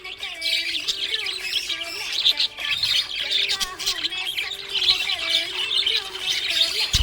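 Small pet parrots chirping and squawking without a break, a dense stream of high, overlapping chatter with warbling lower notes woven through it.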